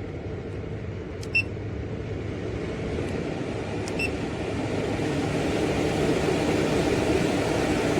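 12V RV roof vent fan running while its speed is stepped up toward highest, its steady whooshing noise growing steadily louder. Two short electronic beeps, about a second and a half in and again about four seconds in, as the speed setting is changed.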